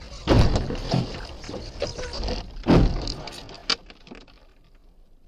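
Vehicle collision: a sudden loud crash, a noisy rumble, and a second crash about two and a half seconds later, then a sharp click as it dies away.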